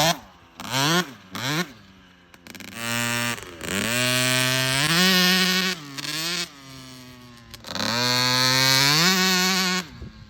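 Husqvarna dirt bike engine blipped twice, then opened up in two long pulls, the pitch climbing and holding high before backing off each time: the bike being ridden into its powerband.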